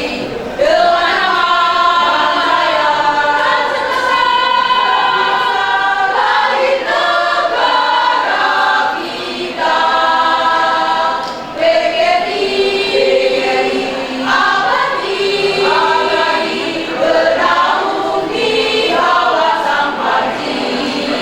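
Choir singing in several voice parts, on long held notes, with a short break just after the start and another about halfway through.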